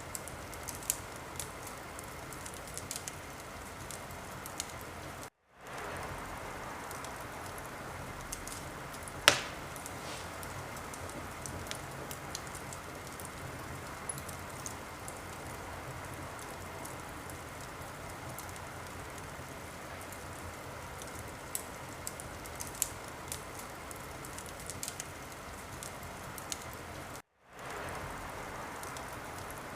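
Wood fire crackling: a steady hiss with scattered sharp pops and snaps, one much louder pop about nine seconds in. The sound cuts out for a moment twice, about five seconds in and near the end.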